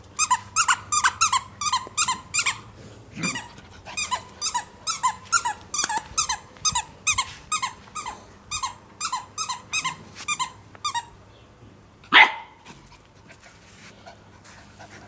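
Rubber squeaky dog toy squeaked over and over as a dog chews it, a quick string of short squeaks that each fall in pitch, about two or three a second. The squeaking stops after about eleven seconds, and one loud, short sound follows about a second later.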